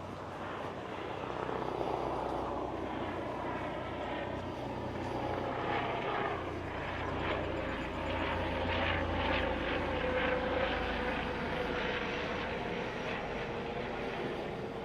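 Aircraft flying overhead: a steady engine drone with a low hum, growing louder about two seconds in and holding.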